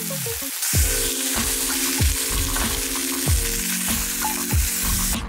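Ground meat sizzling as it fries in a skillet, a dense steady hiss, over background music with held low notes and a deep beat about every second and a quarter. The sizzle cuts off at the end.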